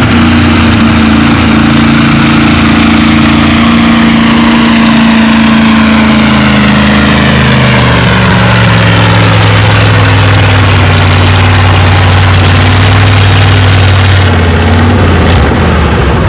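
Big-cubic-inch V8 engine in an International W9 tractor running hard while pulling the sled. Its pitch sinks over the first half as the engine lugs down under the load, then holds low and heavy.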